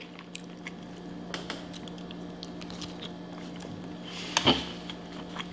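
Quiet chewing of cheese fries, with small wet mouth clicks and a fork picking at the foil tray, and one louder mouth sound about four and a half seconds in. A low steady hum runs underneath.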